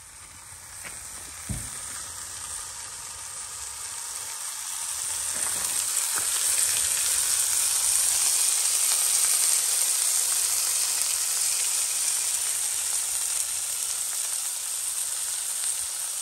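A whole chicken searing in a cast-iron Dutch oven on a camp stove, a steady sizzle that grows louder over the first several seconds and then holds. A single short knock comes about a second and a half in.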